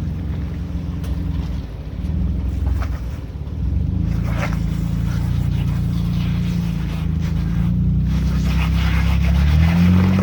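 Jeep engine working under load while crawling over rocks. It dips briefly about two seconds in, runs harder from about four seconds, and revs up near the end.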